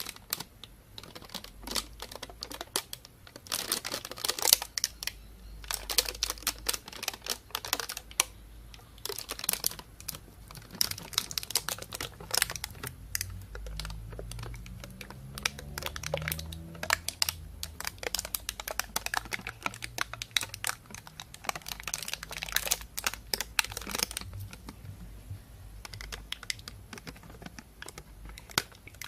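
Plastic bag crinkling and rustling close to the microphone: dense, irregular crackles that come in clusters with short pauses between them.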